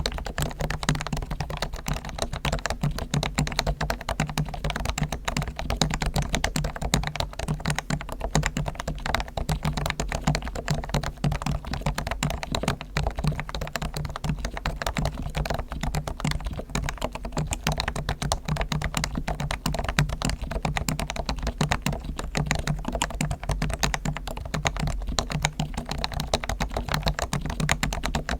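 Continuous fast typing on a Realforce R1 Topre electrostatic-capacitive keyboard whose springs, sliders and stabilizers are lubed with Krytox and whose case is foam-dampened: a dense, steady stream of keystrokes with no pauses.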